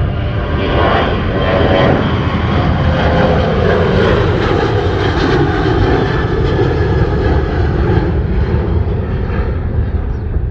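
Jet airliner's engines at takeoff thrust, a loud steady roar with a deep rumble. In the first couple of seconds a whine rides on top of the roar and slides down in pitch as the plane goes past; the noise eases slightly near the end.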